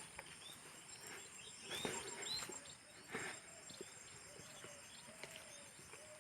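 Faint outdoor ambience with birds chirping: a few short, scattered calls.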